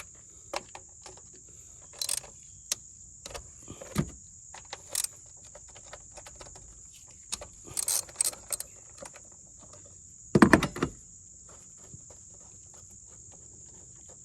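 Scattered metallic clicks and clunks of hand tools and parts being handled in a car's engine bay as 10mm nuts and a cover come off, with the loudest clunk about ten seconds in. A steady high insect chirring runs underneath.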